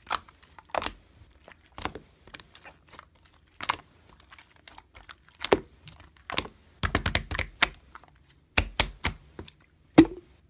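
Homemade slime being squished, stretched and torn, giving irregular sharp pops and clicks, with a quick run of them about two-thirds of the way in.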